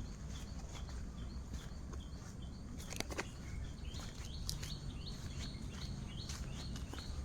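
A forest bird calling in short, repeated high notes that come about three a second in the second half, over a steady low rumble, with a few sharp clicks.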